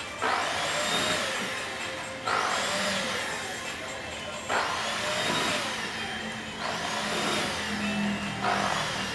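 Idealife vacuum cleaner running over a carpet, its airflow hiss surging suddenly and then easing off about every two seconds as it is pushed back and forth, with a steady motor hum underneath.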